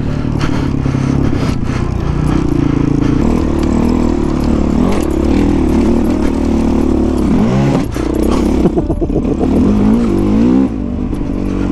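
Honda CRF450 dirt bike's single-cylinder four-stroke engine running under load, revs rising and falling with the throttle, with a brief drop in revs about eight seconds in and a fall-off near the end.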